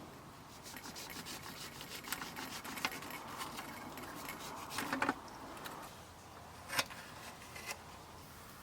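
Close handling noise: rubbing and rustling with many small clicks, a sharp clatter about five seconds in and a single knock near seven seconds.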